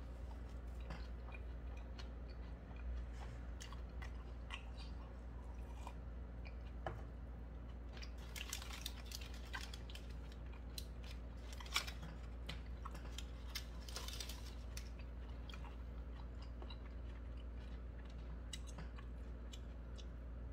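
Close-up chewing and biting of a burger, with small crackling clicks from the paper wrapper, busiest in the middle and with one sharper click partway through. A steady low hum runs underneath.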